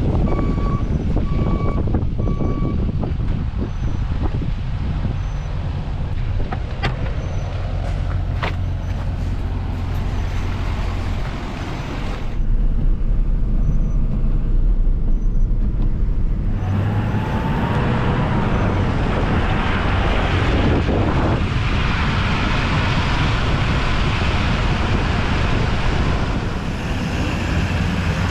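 Salt truck's engine running steadily, heard from the cab while it drives and salts. A repeated beep sounds for the first few seconds, and a louder hiss joins in a little past halfway.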